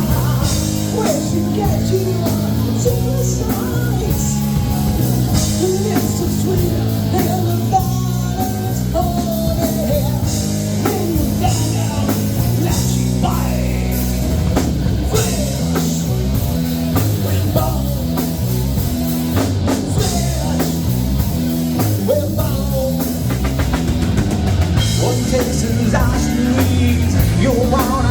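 Rock band playing live: drum kit, electric guitars and bass at a steady loud level, with a singer.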